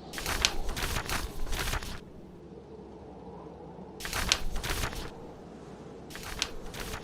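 Book pages being turned three times, each a paper rustle lasting one to two seconds, about four seconds and six seconds apart, over a steady low background of blizzard wind and fire.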